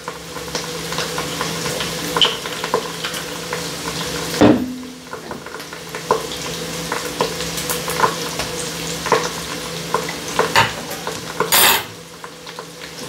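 Onions and mushrooms sizzling steadily in a frying pan, with scattered small clicks and scrapes of a utensil in the pan. A louder knock comes about four and a half seconds in, and a short sharp clatter near the end.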